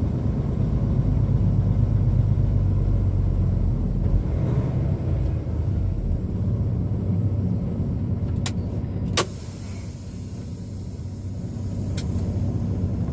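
Semi-truck's diesel engine running with a steady low rumble heard from the cab as the tractor-trailer pulls forward. A few sharp clicks come about two-thirds of the way through, the loudest followed by the engine getting quieter, and one more near the end.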